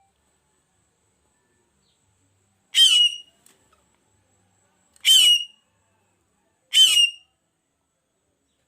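Loan phượng bird calling three times, each a short, harsh call of about half a second, roughly two seconds apart. This is the song played as a lure for trapping the bird.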